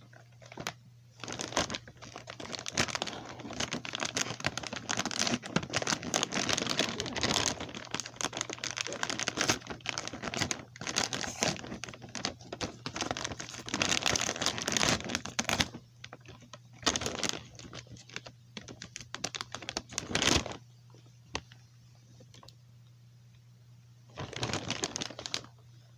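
Crinkly plastic snack bag of garlic parmesan Pretzel Crisps being handled and torn open: a long stretch of dense crackling and crinkling, then a few shorter crinkles near the end.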